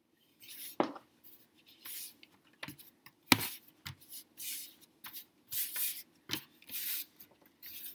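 Hands kneading and pressing soft homemade flour-and-conditioner dough on a mixing tray, with irregular short rubbing and scraping sounds and a few sharp knocks, the loudest about three seconds in.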